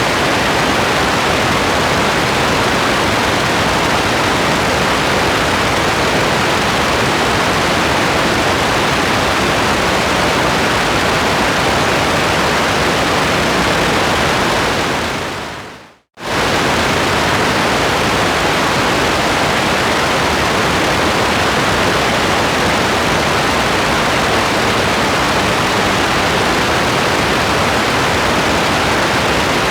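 Steady rain hiss, an even wash of noise with no separate drops standing out. About fifteen seconds in it fades out to a moment of silence, then comes straight back at full strength.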